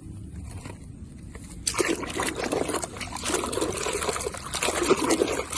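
Water pouring and splashing as a muddy toy truck is rinsed clean, starting about a second and a half in.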